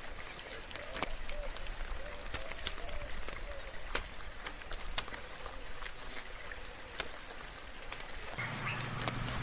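Steady rain with individual drops ticking sharply, and a few faint short bird calls in the first few seconds. A low steady hum comes in near the end.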